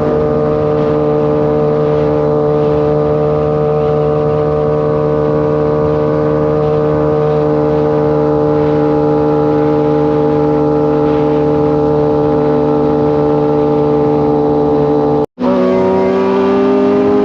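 Kawasaki sport bike's inline-four engine running at a steady cruising speed, its note holding nearly constant. Near the end the sound breaks off for a moment, then comes back a little higher in pitch and rising slightly.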